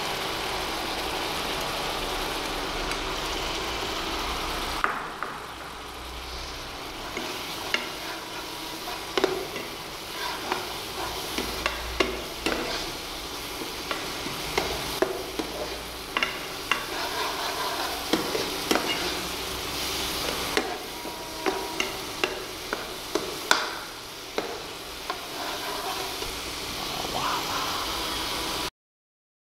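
Onion masala with turmeric and red chilli powder frying in oil in a non-stick kadai, a steady sizzle, while a perforated steel skimmer stirs it, scraping and tapping against the pan in frequent clicks from about five seconds in. The sound cuts off abruptly near the end.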